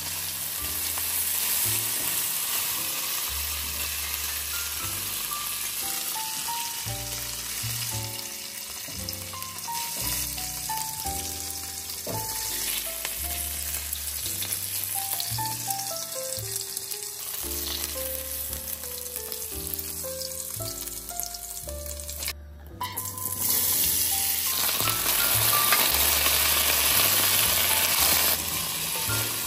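Pork and onions sizzling as they fry in oil in a frying pan, stirred and lifted with a spatula. After a break about two-thirds in, potato cubes frying in oil sizzle louder as a wooden spatula stirs them. Light background music with stepped melodic notes plays over the frying.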